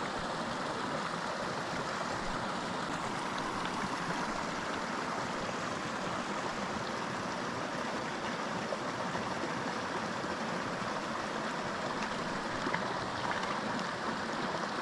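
Small mountain creek flowing and splashing over rocks, a steady rush of running water.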